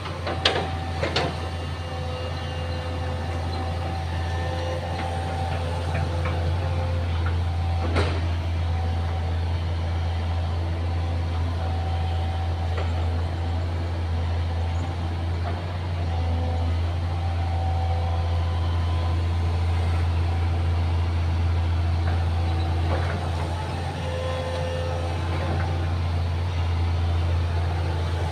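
Excavator's diesel engine running steadily with a deep, even drone. A few sharp knocks come in the first second or so, and another about eight seconds in.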